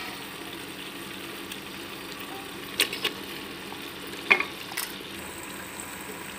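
Masala paste of ginger, garlic and onion sizzling steadily in hot oil in a pressure cooker, with a few sharp knocks and clicks as raw chicken pieces are put in; the loudest knock comes a little after four seconds in.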